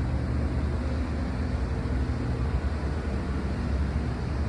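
A steady low engine rumble with a faint even hum.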